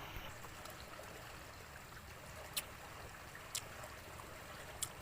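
Faint steady rushing like running water, with three short sharp clicks in the second half.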